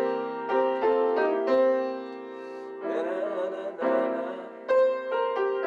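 Piano playing a slow C blues phrase around a C7 chord, a series of chords struck about half a second apart at first, then a few more further on.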